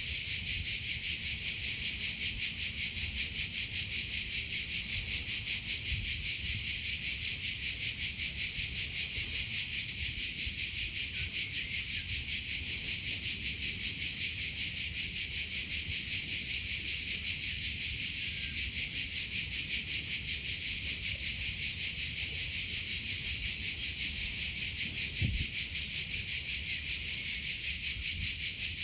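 Crickets chirping in a steady, high-pitched chorus with a fast, even pulse.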